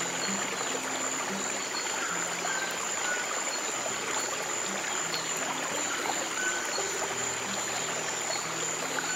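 Running stream water flowing steadily, with soft, low piano notes sounding underneath.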